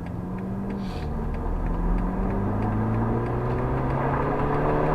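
Car engine heard from inside the cabin, accelerating: its pitch drops at a gear change about a second in, then climbs steadily as it grows louder.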